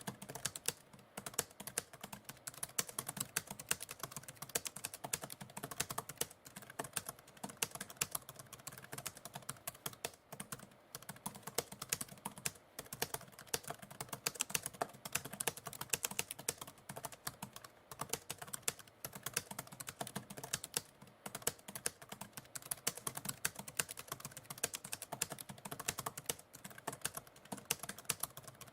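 Typewriter keys typing: a continuous, irregular run of rapid keystrokes.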